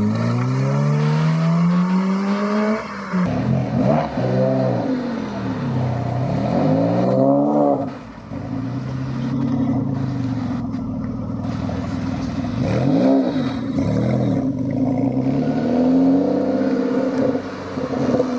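Car engines running and revving: one note climbs steadily for the first few seconds, then several quick rev blips rise and fall, about four, seven and thirteen seconds in, over steady running.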